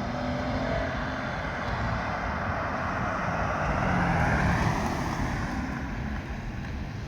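Exhaust of a Ford Edge's 3.5 V6 fitted with a cutout valve, running under acceleration as the car goes past. Its pitch rises and then falls, and it is loudest about four seconds in.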